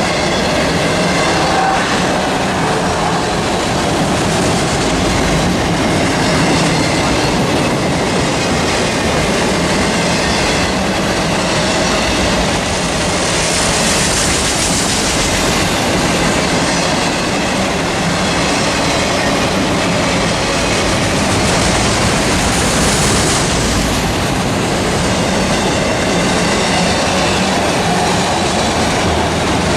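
Freight train cars rolling past close by in a long, steady rumble, with wheels clacking over the rails and a faint squeal of wheels on the rail.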